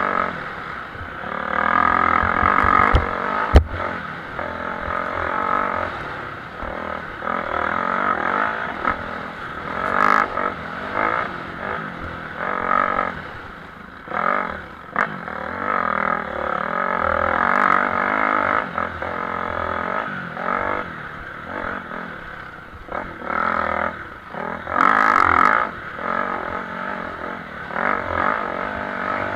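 Motocross bikes racing, their engines revving up and dropping off again and again. There is a sharp knock about three and a half seconds in.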